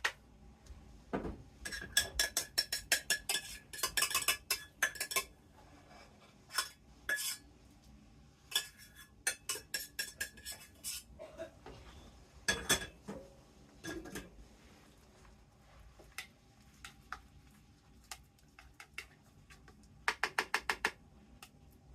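Dishes and cutlery clinking and knocking as small plates are set down over the filled dishes. The knocks come in clusters with quiet pauses between, ending in a quick run of about six clicks.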